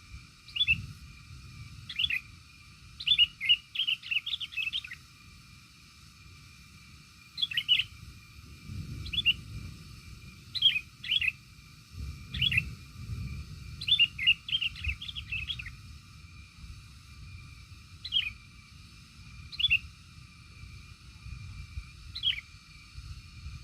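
A small bird giving short, high chirps, sometimes singly and sometimes in quick runs of several, with pauses of a second or two between. A low rumble runs underneath.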